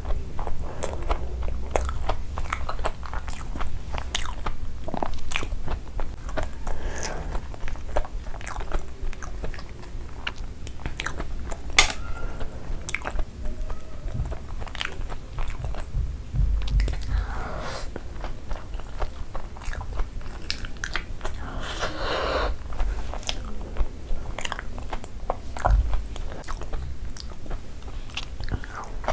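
Close-up eating sounds: crunchy bites into a breadcrumb-coated cheese corn dog and steady chewing with wet mouth clicks.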